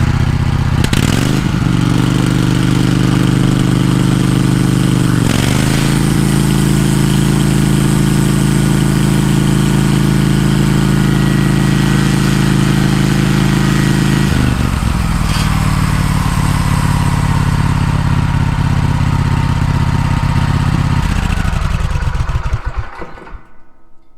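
Wood-Mizer band sawmill's engine running the band saw blade at speed with diesel dripping on the blade to clean off pine resin. The engine note shifts a few times, drops lower about two-thirds through, then winds down to a stop near the end.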